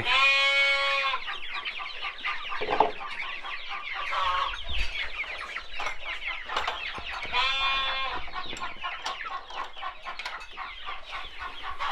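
A flock of chickens clucking and chirping continuously, with two long drawn-out calls, one at the start and one about halfway through.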